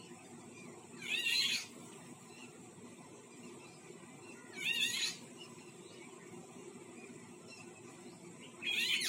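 A bird giving a short, wavering, cat-like call three times, about every four seconds.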